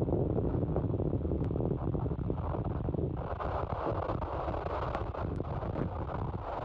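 Falcon 9 first stage's nine Merlin 1D engines rumbling steadily as the rocket climbs after liftoff, a dense low roar of rocket exhaust noise.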